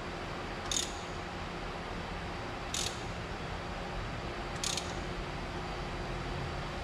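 Ratchet wrench clicking in three short bursts about two seconds apart as the engine is turned over by hand toward top dead centre on number 1, over a steady hum.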